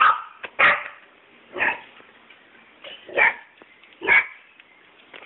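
A dog barking five times at uneven intervals, short sharp barks.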